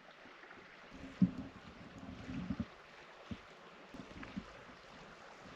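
Wind buffeting the microphone: a low rumble about a second in that lasts under two seconds, over a faint steady hiss, with a few soft knocks after it.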